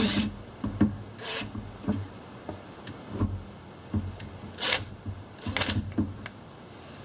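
Hose clamp being tightened with a 1/4-inch socket on a coolant hose: a series of short, irregular scraping and rubbing strokes as the socket turns the clamp screw down until it is tight.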